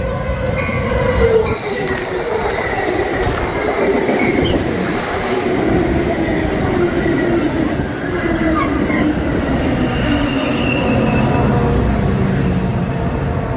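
A train passing close by, with rumbling and squealing steel wheels on the rails and a tone that falls slowly throughout.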